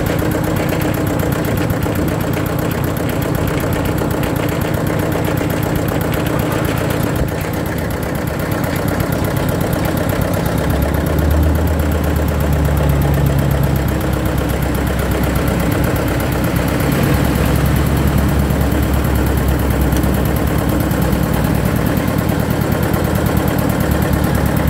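Eicher tractor's diesel engine running steadily with its exhaust note to the fore. From about ten seconds in it runs deeper and a little louder.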